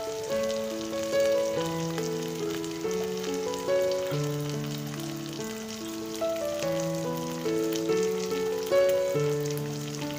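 Koi fish curry sizzling in oil in a pan, with fine crackles, as its water cooks off and the oil separates: the sign that the dish is done. Instrumental music plays a melody of held notes over it.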